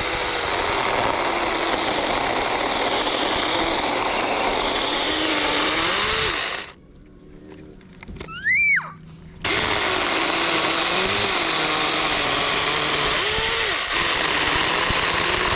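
Battery-powered mini chainsaw (Keelat cordless, 6-inch bar) running under load, its motor pitch wavering as it cuts wood. It stops partway through for about three seconds, during which a brief whine rises and falls, then runs again.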